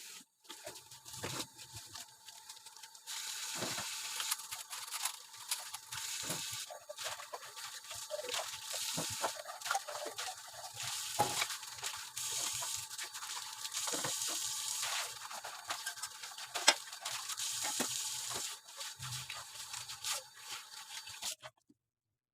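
Kitchen work: a steady high hiss with frequent clicks and knocks of utensils, broken by abrupt cuts and stopping suddenly near the end.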